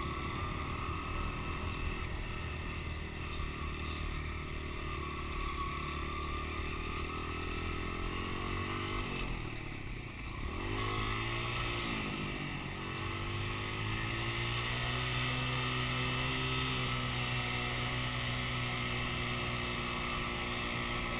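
Dirt bike engine running steadily; about halfway through its pitch drops and wavers, then rises and holds steady again.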